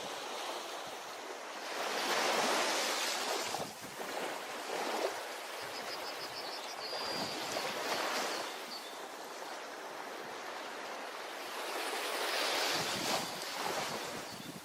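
Ocean waves breaking on a beach: a steady wash of surf with two bigger breakers swelling up, about two seconds in and again about twelve seconds in.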